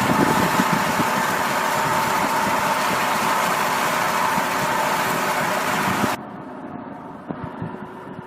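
A heavy vehicle's engine running steadily, loud and noisy with a faint steady tone. About six seconds in it cuts abruptly to a quieter engine sound.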